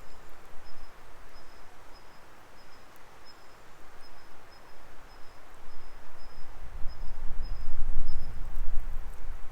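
Wood fire burning in a fire pit with a steady hiss and scattered faint crackles. A low rumble swells in the second half. A short high chirp repeats about twice a second in the background.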